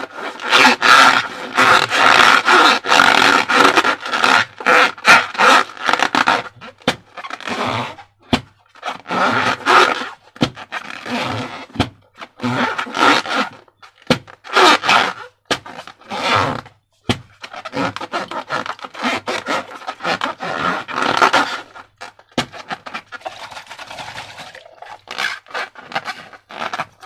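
Slime and rubber balloons being handled: irregular bursts of squishing, rubbing and crackling, broken by sharp clicks and short gaps.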